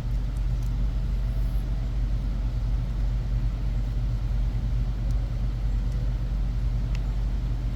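Steady low background hum, even throughout, with a few faint clicks.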